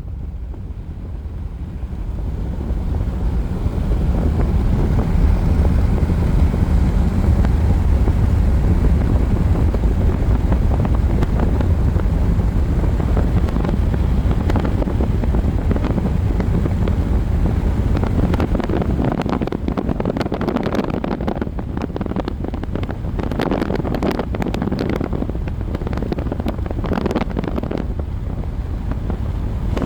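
Strong wind blowing across the microphone: a steady low rumble that rises a few seconds in, with rough, crackling gusts through the second half.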